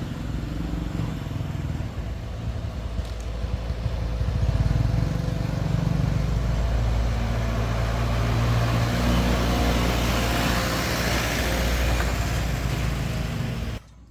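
A motor vehicle engine running, growing louder about four seconds in and holding steady, then cut off abruptly near the end.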